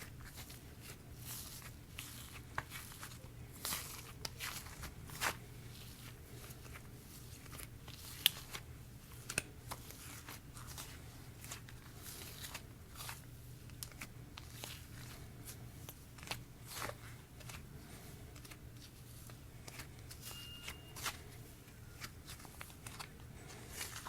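Homemade slime with sprinkles being squished and stretched by hand, giving irregular sticky clicks and crackles, over a faint steady low hum.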